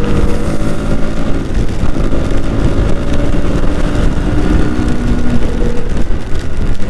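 Motorcycle engine running at cruising speed with wind rushing over the microphone, a steady low rumble with a few held engine tones.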